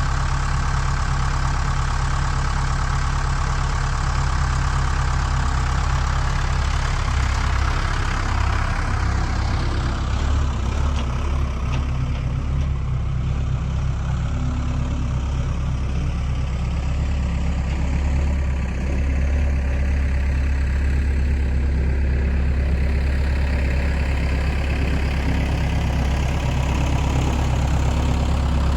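Skid steer engine running steadily, with a strong low hum; the higher-pitched part of the sound eases off about ten seconds in.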